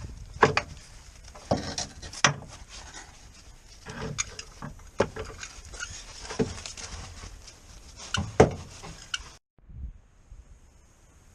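A series of irregular knocks and clatters, as of hard objects being handled and set down, over a low background rumble; it cuts off abruptly about nine seconds in.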